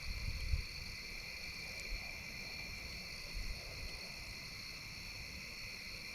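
Steady insect chorus, crickets trilling at several pitches without a break, with a few soft low thumps near the start and about three and a half seconds in.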